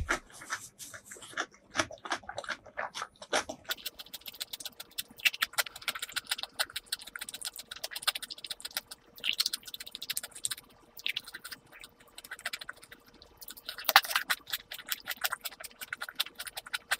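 Close-miked chewing with the lips closed: rapid wet clicks and smacks of the mouth, with louder bursts of smacking about halfway through and near the end.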